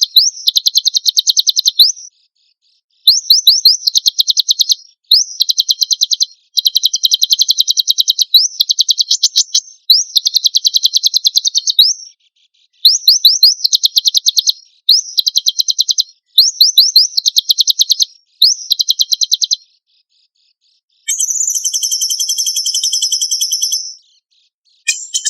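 Songbird song of rapid, high-pitched rattling trills, coming in repeated bursts of one to two seconds with short silent gaps between them. Near the end a steadier, buzzier high trill runs for about three seconds.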